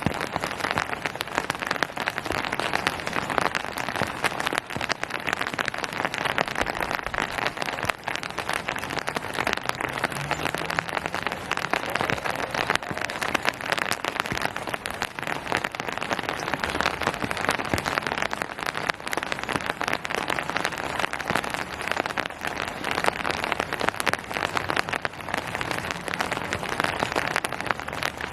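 Steady rain falling on hard surfaces, a dense patter of many small drop strikes at an even level.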